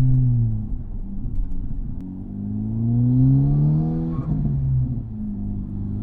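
Tuned Honda Civic Type R's turbocharged 2.0-litre four-cylinder, with a larger RV6 660 turbo and an MXP exhaust with its valve open, pulling hard through the gears. The engine note drops away at first, climbs for about two seconds, breaks briefly with a gear change about four seconds in, then climbs again.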